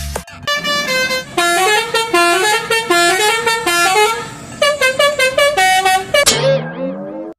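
Bus telolet horn, a Basuri multi-tone musical air horn, playing a quick stepping melody of loud, brassy notes, ending in a sliding, wavering tone near the end.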